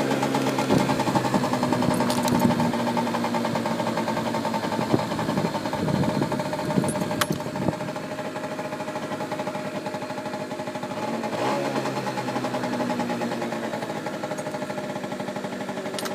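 1989 Peugeot SC50 scooter's 50 cc two-stroke engine idling steadily after a cold start, with a few sharp clicks over it.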